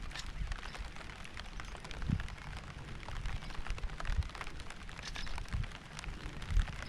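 Rain falling, with many separate close drop hits over a steady hiss, and frequent deep low thumps underneath.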